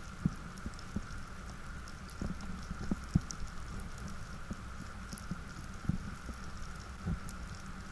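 Underwater ambience recorded by a camera in its housing: a steady low rumble and hiss with faint scattered crackling, broken by a handful of short soft thumps.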